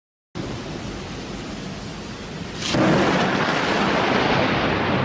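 Thunderstorm: steady rain, then about two and a half seconds in a sudden crack of nearby thunder that runs on into a loud, continuing rumble.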